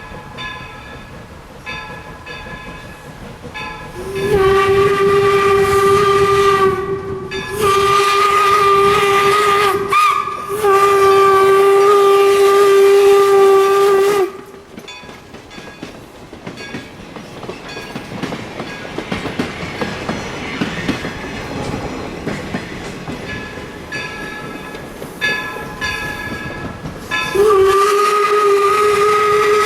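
Steam locomotive whistle, Northern Central 4-4-0 No. 17 "York", sounding three long blasts in a row, then a fourth starting near the end. Train running noise fills the gaps between the blasts.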